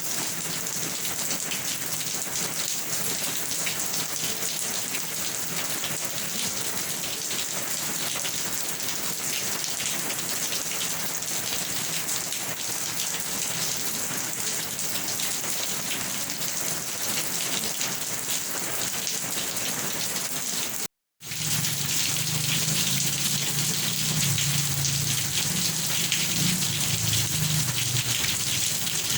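Steady heavy rain hissing on surfaces. About two-thirds of the way through it cuts out for a split second, then resumes with a low rumble underneath for several seconds.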